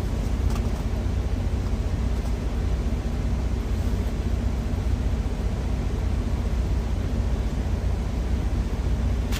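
Steady low rumble of a parked truck's idling engine, with an even hiss over it.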